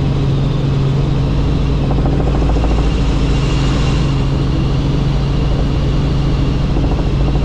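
Helicopter running steadily: a constant low drone from the rotor and engine, with a faint high turbine whine over it.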